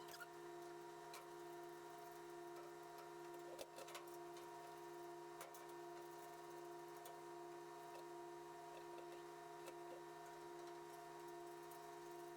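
Near silence: a faint steady electrical hum with a few faint scattered ticks.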